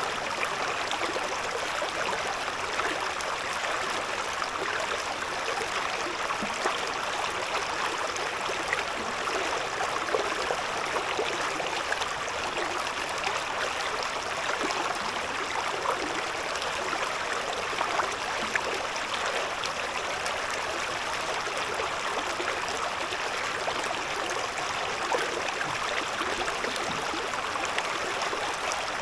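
Shallow river babbling over stones: a steady rush of water with small splashes and gurgles.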